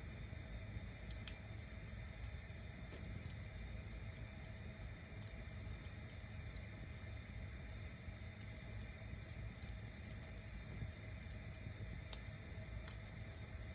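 Bonfire of tower-stacked wood burning with a steady low rush of flame and scattered sharp crackles and pops from the wood.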